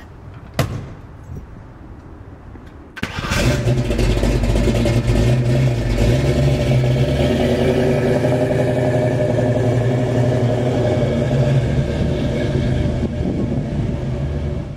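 A car door thud, then about three seconds in a first-generation Ford Mustang's engine starts and runs loudly and steadily until it cuts off suddenly at the end.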